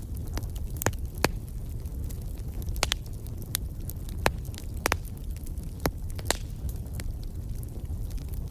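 Wood fire crackling, with irregular sharp snaps and pops over a steady low rumble of burning.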